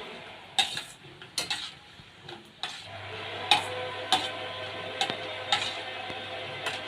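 Hot oil sizzling in a kadai as dry red chillies fry, with a metal ladle clinking and scraping against the pan about a dozen times. The sizzle grows steadier from about three seconds in.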